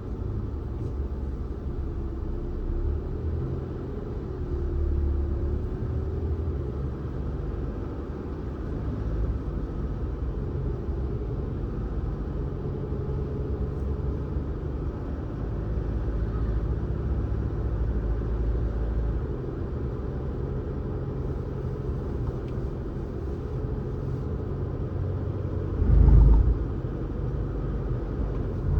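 Car driving along a road: a steady low rumble of engine and tyres. A short, loud low thump comes near the end.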